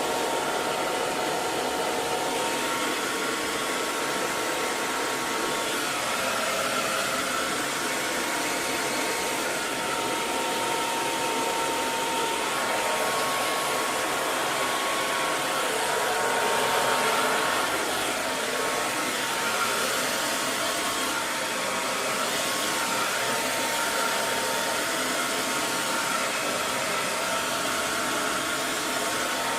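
Hair dryer running continuously, a steady rush of blown air with a faint motor whine near the middle of the range.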